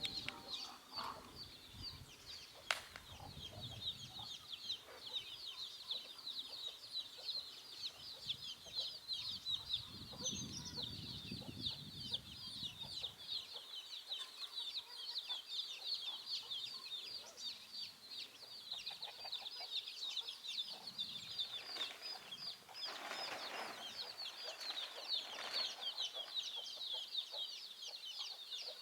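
Chickens: a continuous chorus of rapid, high peeping, with lower clucking now and then.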